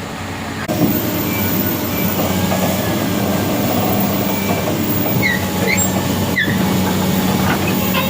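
A heavy vehicle's engine runs with a steady low hum. A few short high squeaks come about five to six seconds in, and a single sharp knock follows soon after.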